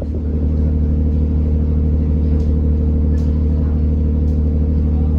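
An engine running steadily at constant speed, a deep even hum with a stack of steady tones and no change in pitch.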